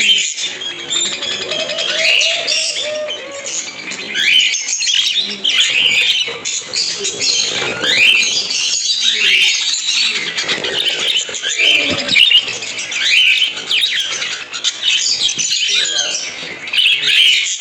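A flock of budgerigars chattering and warbling, many overlapping chirps and squawks with quick rising and falling notes.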